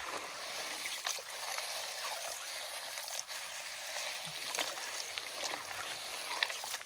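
Steady water noise of a small creek being worked, with a few light clicks and knocks scattered through it.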